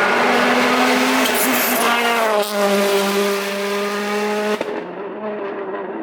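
A World Rally Car's turbocharged four-cylinder engine running hard as the car passes, its pitch falling about two seconds in and then holding steady. Near the end it cuts abruptly to a quieter, duller engine note.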